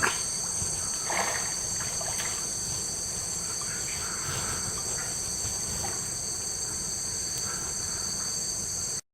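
Rainforest insect chorus: a steady, high-pitched buzzing drone of several overlapping tones, with faint scattered calls of other animals beneath it. It cuts off suddenly at the end.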